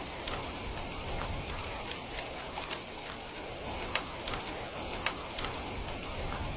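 Steady rain falling, with scattered sharp ticks of drops or crackles a few times a second.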